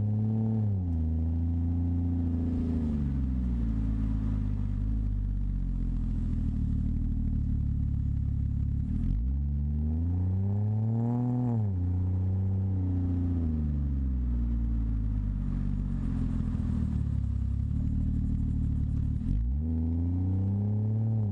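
Exhaust note of a Ford Fusion Sport's twin-turbo 2.7-litre V6 through a MagnaFlow axle-back system, idling steadily. It settles from a rev right at the start, is revved once about halfway through, and starts rising again near the end.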